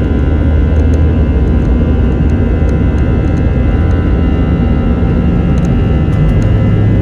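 Airbus A321's jet engines running steadily, heard from inside the cabin: a loud, even drone with several steady high tones above it.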